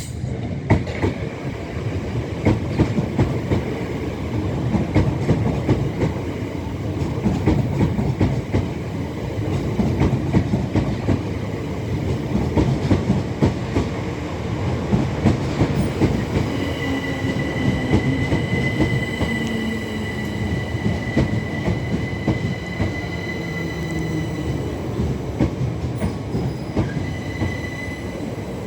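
Passenger train running through the station, its wheels clattering over rail joints and points. A steady high-pitched wheel squeal comes in about halfway through and holds for most of the rest.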